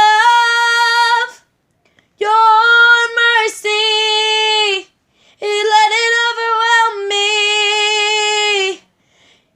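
A woman singing unaccompanied, holding long steady notes: a phrase ends about a second in, followed by two longer held phrases with short pauses between them.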